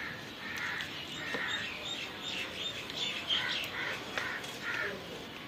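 Birds calling: a run of short calls, about two a second, with higher chirps mixed in.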